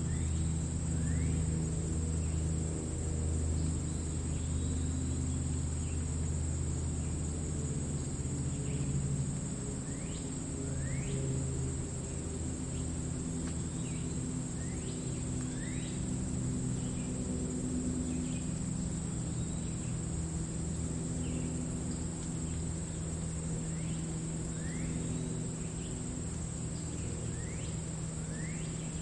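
Grass meadow ambience: crickets trilling in a steady high drone, with short sweeping bird chirps every second or two over a low steady rumble.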